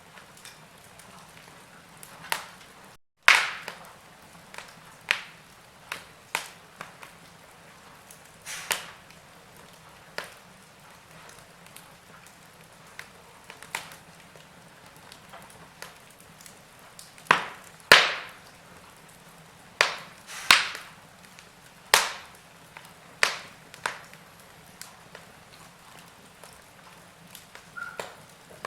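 Wood fire in a fireplace crackling: irregular sharp pops and snaps over a faint steady hiss, coming thickest and loudest in a run of cracks in the later half.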